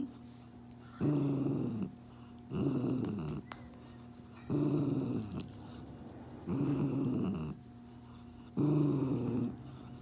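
A terrier growling in five drawn-out, grumbling growls, one about every two seconds. Each lasts about a second and slides down in pitch: a disgruntled dog's warning grumble while being handled.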